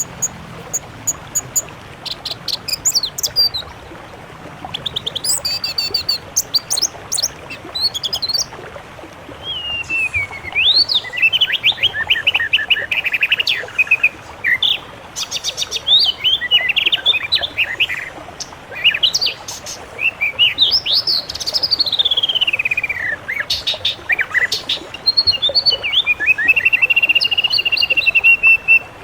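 Songbirds singing a varied song. Quick chirps and trills come first, then whistled phrases that sweep up and down, and a long held whistle near the end, over a steady hiss.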